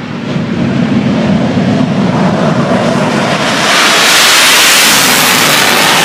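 English Electric Lightning F6's twin Rolls-Royce Avon turbojets at high power. The noise builds at first, then swells sharply and loudly about three and a half seconds in.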